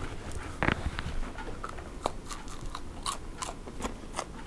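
A person biting into a crispy, cheese-filled baked Doritos Loaded Cool Ranch snack bite, then chewing it with a run of crunches about three a second.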